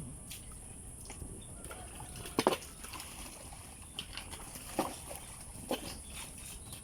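Water sloshing and splashing in a shallow drainage ditch, three or four short splashes, the first the loudest, over a steady chorus of crickets.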